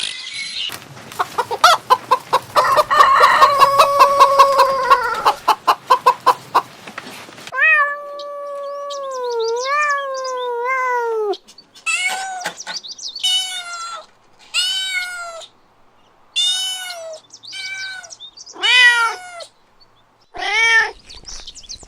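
A cat meowing: a rough, pulsing yowl lasting several seconds, then a long wavering meow, then a run of about seven short meows, roughly one a second.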